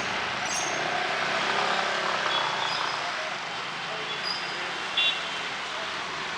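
Steady hiss of rain, with a brief sharp knock about five seconds in.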